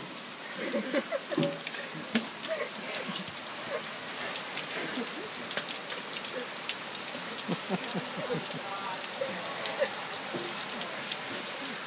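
Heavy rain falling steadily, a constant hiss with many sharp drop ticks close by, with faint voices calling now and then.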